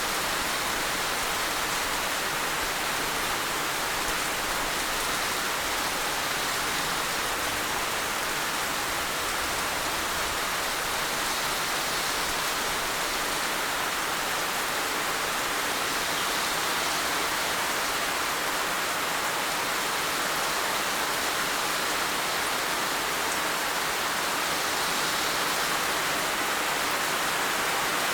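Heavy rain falling in a steady, even downpour with no let-up.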